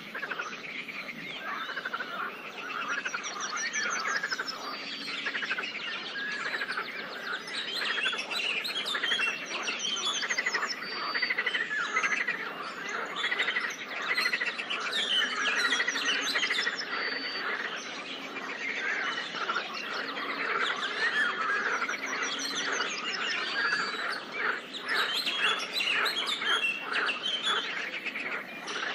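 Dense chorus of many songbirds chirping and singing at once, with a quick high trill that comes back every few seconds.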